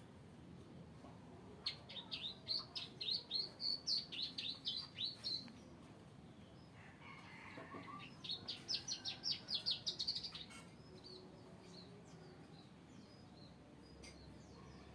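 Plain prinia (ciblek sawah) singing: two bouts of quick, repeated high chirping notes, about four or five a second, each lasting a few seconds with a pause between.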